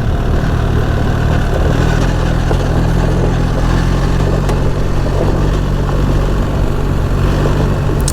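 BMW R 1300 GS's two-cylinder boxer engine running steadily as the motorcycle climbs a gravel track, under a steady rushing noise.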